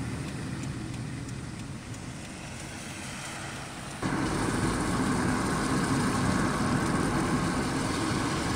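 Car driving along, a steady run of engine and road noise that jumps suddenly louder about four seconds in.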